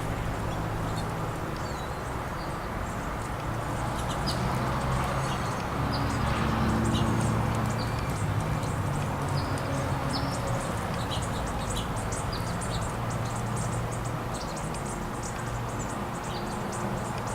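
Small songbirds chirping: many short, high calls scattered throughout, over a steady low hum.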